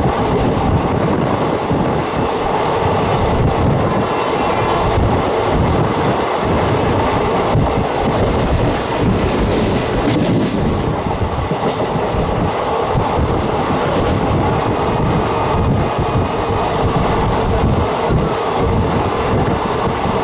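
Passenger train running at speed, heard from inside a carriage: a steady, loud rumble and rattle of the wheels on the track, with a brief rise in hiss about halfway through.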